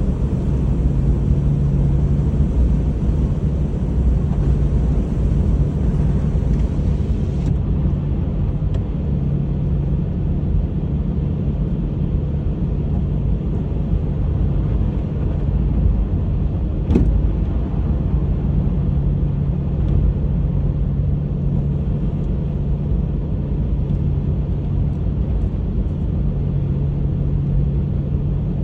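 Honda HR-V driving on a snowy road: a steady low rumble of engine and tyres with an even hum, and a single sharp click about seventeen seconds in.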